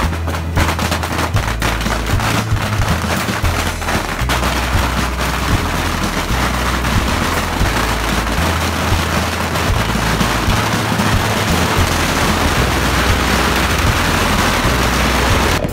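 Dense barrage of bottle rockets firing from a beehive rocket rack: rapid crackling pops that blur into a continuous rushing noise in the second half.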